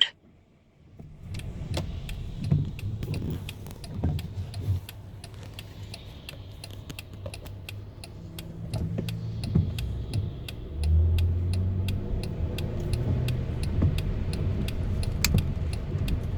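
Car engine and road noise heard from inside the cabin, with the turn signal ticking steadily about three times a second. The engine noise grows louder about two-thirds of the way through.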